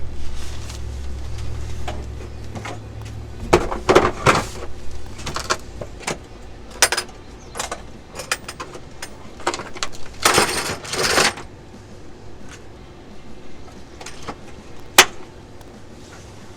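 Hand tools and metal parts clinking and rattling in scattered short bursts during wrench work under a pickup truck, with one sharp click near the end.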